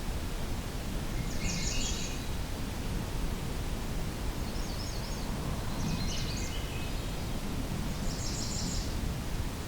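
Swainson's thrush singing: three or four short, high, fluty song phrases a few seconds apart, over a steady low background rumble.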